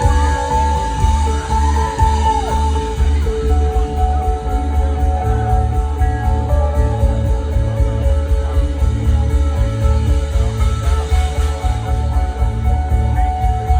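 Live jam band playing an instrumental passage: electric guitar holding long lead notes over a pulsing bass line and drums, with one note bent downward about two seconds in.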